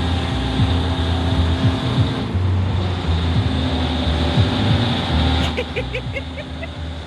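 Hurricane carnival ride's machinery running with a steady low rumble and hum. About five and a half seconds in, a quick run of about six short high-pitched chirps sounds over it.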